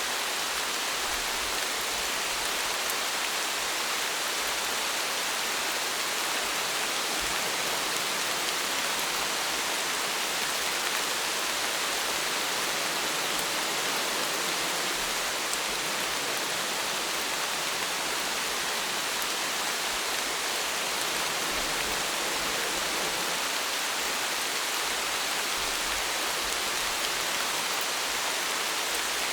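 Steady rain falling, an even hiss of many drops with faint individual taps, without letting up.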